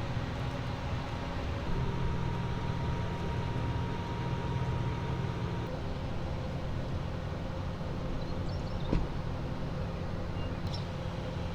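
Steady low rumble of large diesel engines running at idle, with a single sharp knock about nine seconds in.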